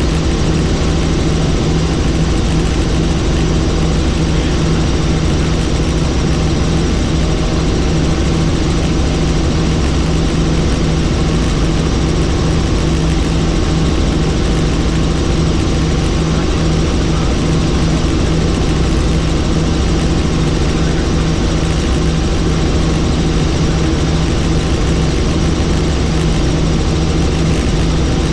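Helicopter in steady flight: constant engine and rotor noise with a low, even hum over a wide rushing sound.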